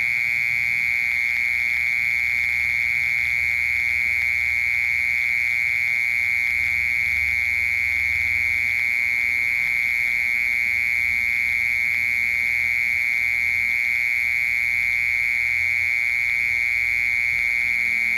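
Cricket singing: one continuous, unbroken high trill held at a steady pitch.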